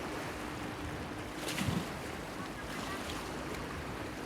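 Sea water washing against a breakwater pier with light wind, an even wash of noise under a faint steady low hum. About a second and a half in comes one short sharp sound, the loudest moment.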